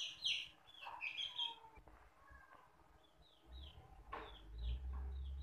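A bird chirping: a run of short, high, falling chirps about two a second in the second half, over a low rumble.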